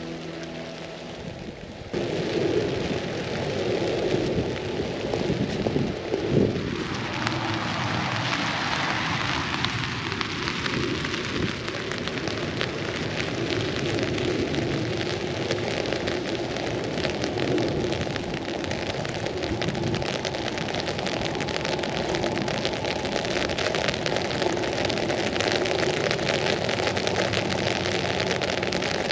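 Steady rain pattering on an umbrella overhead. A vehicle passes on the wet street, its tyre hiss swelling about six seconds in and fading over the next few seconds.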